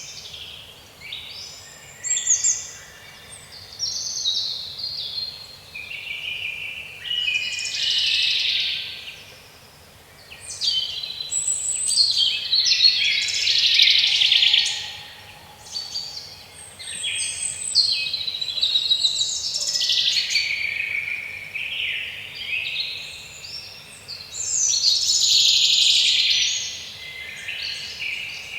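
Several songbirds singing and chirping together in a woodland chorus, the song swelling and fading every few seconds.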